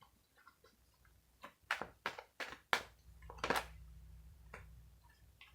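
A series of short, sharp clicks and taps, about seven, spread unevenly over a few seconds. A low steady hum comes in about three seconds in.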